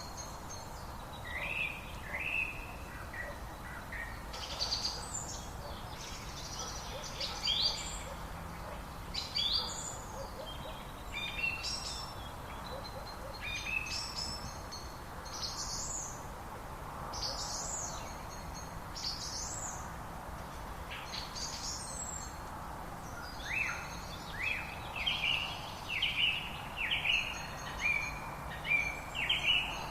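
Wild birds singing over a steady background hiss: scattered short, high song phrases, and near the end a long run of short falling notes repeated over and over.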